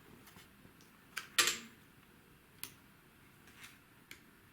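A few small, sharp clicks and snaps of thin wooden parts being pressed out of a pre-cut sheet of a wooden model kit. The loudest snap comes about one and a half seconds in.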